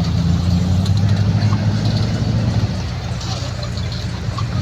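A motor vehicle engine running steadily, its low hum easing off a little over halfway through.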